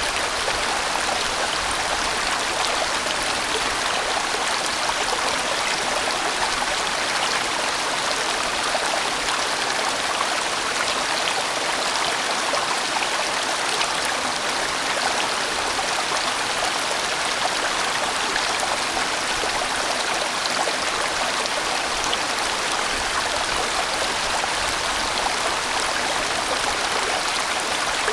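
A large valley stream flowing over rocks: a steady, even rush of water with no breaks.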